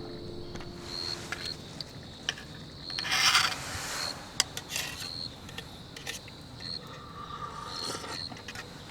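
Rustling, scraping and clicking as camp gear is handled, loudest about three seconds in, with a short high-pitched chirp repeating about once a second.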